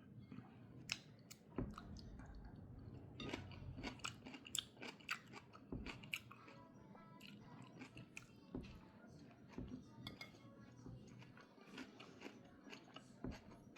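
A person chewing food close to the microphone: a string of soft, irregular crunches and mouth clicks.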